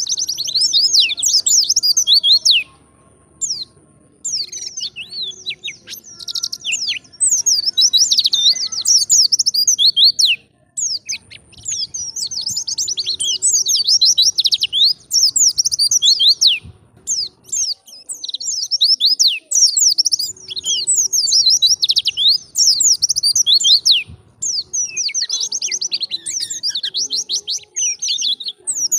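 White-eye (pleci) singing in the wild 'ngalas' style: long, fast runs of high, sweeping twittering notes, broken by short pauses.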